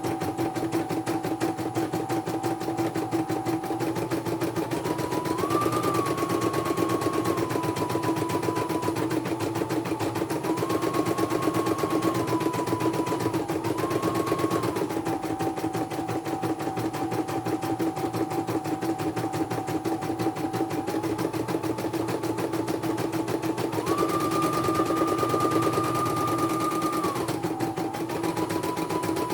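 Computerized embroidery machine stitching at speed: a rapid, even needle clatter under a motor whine that steps up and down between a few pitches as the stitching speed changes.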